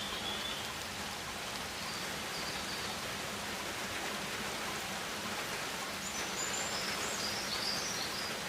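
Rainforest ambience: a steady rain-like hiss, with a few faint high bird chirps near the start, a couple of seconds in, and again near the end.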